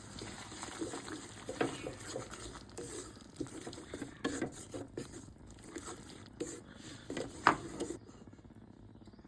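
Stirring in a cooking pot: irregular knocks and scrapes of a spoon or spatula against the pot, the sharpest knock about seven and a half seconds in, stopping about a second before the end.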